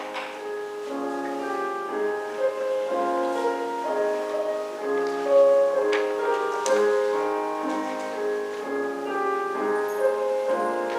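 Slow instrumental music played on a keyboard instrument: a melody over sustained chords.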